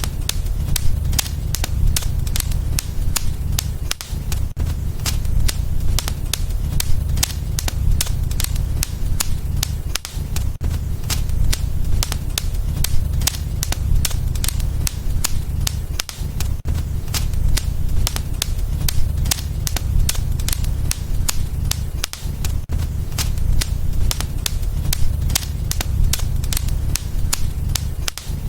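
Wood fire in a fireplace crackling, with a rapid, irregular stream of sharp pops and snaps over a steady low rumble of the flames.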